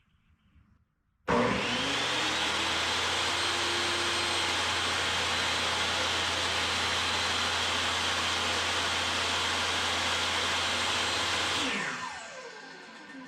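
Table saw switched on, its motor and blade spinning up quickly and then running steadily. Near the end it is switched off and winds down with a falling whine.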